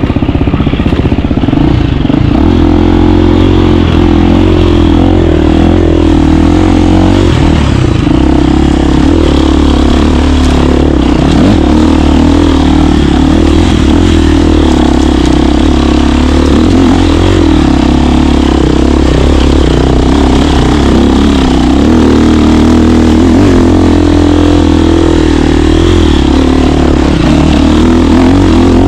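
KTM 350 dirt bike's single-cylinder four-stroke engine running while riding, its pitch rising and falling with the throttle.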